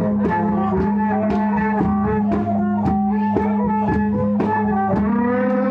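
Traditional folk ensemble music accompanying a mamuat spirit-medium dance. A steady drone sits under a melody that slides between notes, and a drum beats about twice a second.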